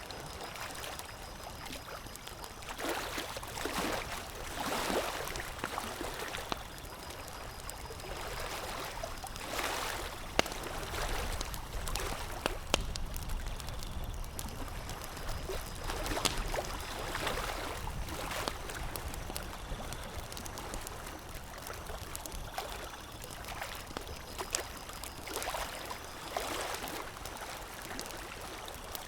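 Campfire crackling, with a soft rushing noise that swells every few seconds and a few sharp pops.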